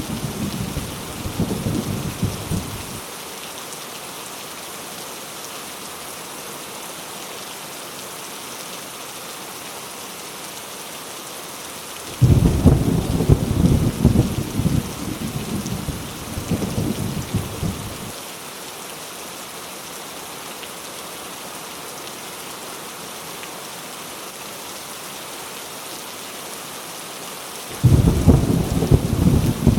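Heavy rain falling steadily, with rolling thunder. One roll dies away in the first few seconds. Another breaks suddenly about twelve seconds in and rumbles for about six seconds, and a third breaks near the end.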